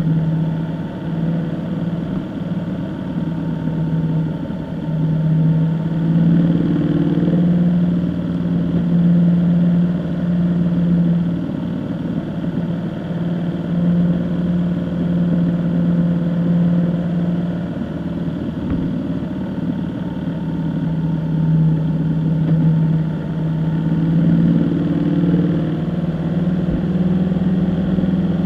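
A vehicle engine runs steadily while driving. Its low hum rises and dips slightly over and over, under continuous road noise.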